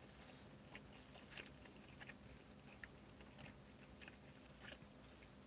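Faint chewing of a mouthful of burger: soft, irregular wet clicks of the mouth, every half second or so, over near silence.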